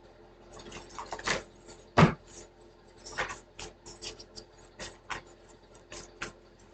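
Irregular light clicks and rustles of small objects being handled by hand, about a dozen in all, the sharpest about two seconds in.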